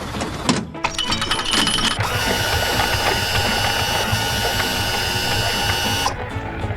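Cartoon mechanical sound effects over background music. A quick run of ratcheting clicks comes about a second in, then a steady machine whirring that cuts off sharply near the end.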